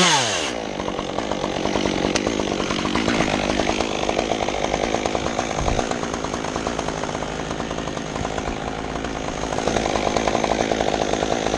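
Stihl two-stroke chainsaw coming off full throttle at the start, its pitch dropping quickly, then idling with a rough, uneven putter. It picks up a little near the end.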